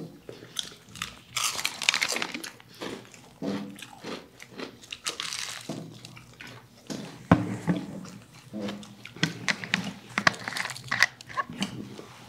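Close-up crunching bites and chewing of crispy fried chicken, a run of irregular crackles.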